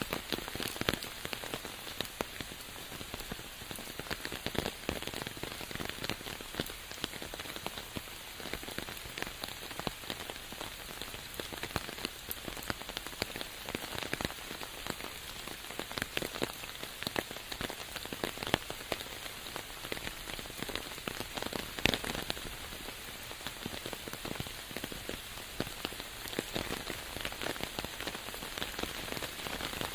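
Steady rainfall, with many close raindrops ticking and spattering through the even hiss of the rain.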